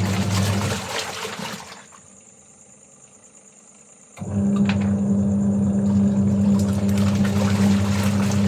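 An electric motor hums steadily along with rushing, splashing water. It stops about a second in and starts again abruptly about four seconds in. A steady high-pitched insect chorus runs underneath.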